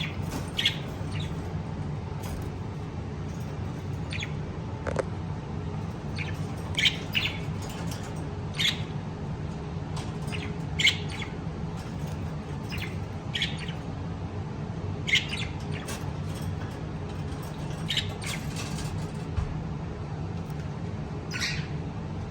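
Pet lovebirds giving short, sharp chirps and squawks at irregular intervals, over a steady low hum.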